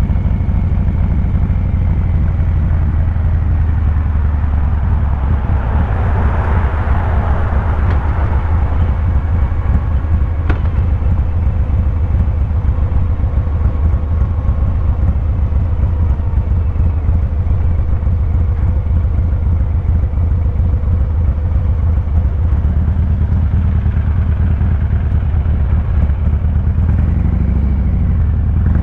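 Harley-Davidson Fat Boy 114's Milwaukee-Eight V-twin exhaust running at a steady low-rpm pulse while cruising. A rush of noise swells and fades about six to nine seconds in.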